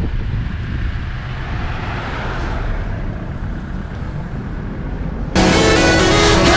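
Low, steady rumble of wind and motion noise from a motorbike on the move, with no clear engine note. About five seconds in, background music cuts in abruptly and takes over.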